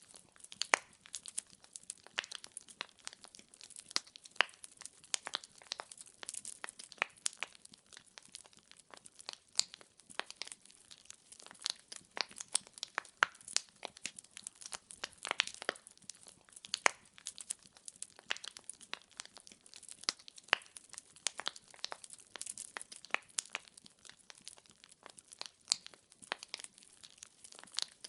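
Burning firewood crackling and popping: a dense, irregular run of sharp snaps with no steady roar underneath.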